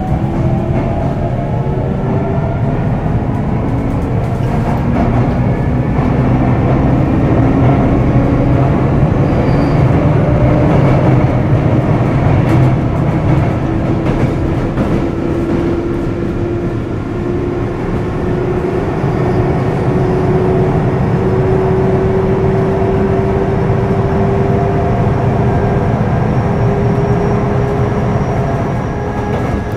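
Sotetsu 8000 series electric train running between stations: a steady rumble of wheels on rail, with a traction-motor whine that climbs slowly in pitch as the train gathers speed. A few faint clicks about halfway through.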